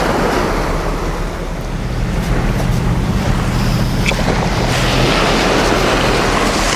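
Sea surf washing on the beach, mixed with wind buffeting the microphone. A low steady hum runs under it for the first five seconds.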